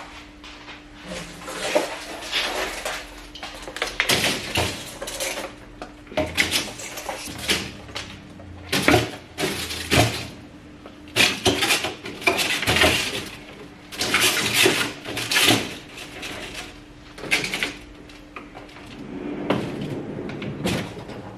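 Bottles and food containers clattering and knocking irregularly as they are set into a refrigerator, with a faint steady hum underneath.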